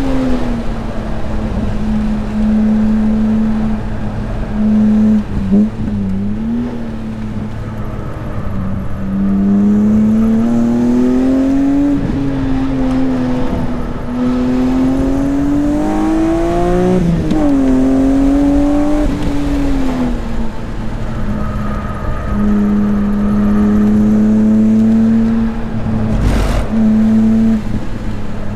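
S54 inline-six engine in a race-prepared BMW E36 M3, run hard around a track: its pitch holds steady, then climbs and drops sharply twice at gear changes before easing down. A single sharp knock sounds near the end.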